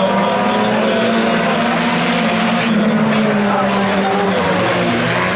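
A pack of IMCA Sport Compact race cars, front-wheel-drive four-cylinder engines, running hard together, several engine notes overlapping and shifting in pitch as the cars drive under power.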